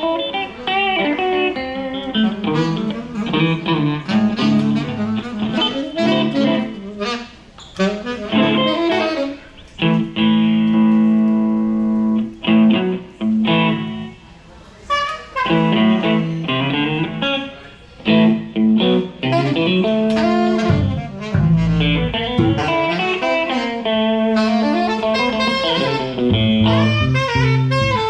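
A live band playing an instrumental jazz-blues groove, with a guitar leading over low bass notes and a long held chord partway through.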